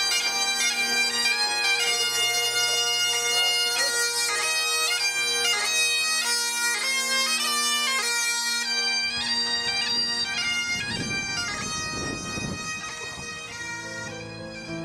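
Bagpipe tune: a stepping chanter melody over a steady drone. The drone drops out about two-thirds of the way through and the music grows quieter toward the end.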